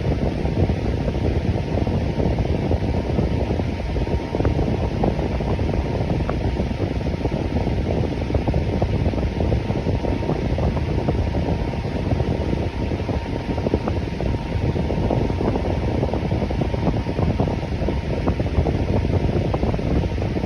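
Electric fan running steadily: an even whooshing air noise, deepest and strongest in the low range, with a faint steady hum near the top of it.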